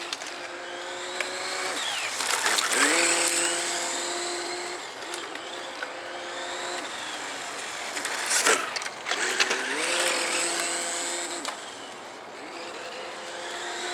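Electric Tamiya TT-01 RC car running with its homemade engine-sound device, a small motor and an empty can, giving a pitched hum that steps up in pitch and drops back several times as the car speeds up and slows. Over it the drive motor's whine rises and falls, with a few sharp clicks about two-thirds of the way through.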